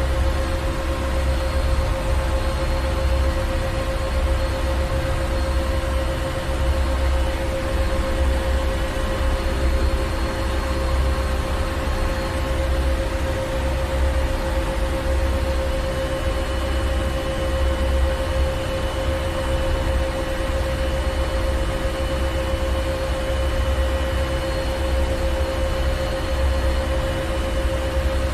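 Ship's engine room: a steady low machinery rumble with a constant hum and hiss and no breaks.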